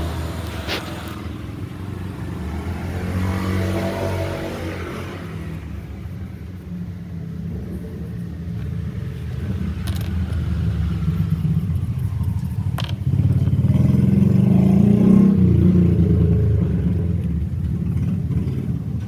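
Motor vehicle engines going past, a low rumble that swells twice, more loudly the second time, with a few light clicks.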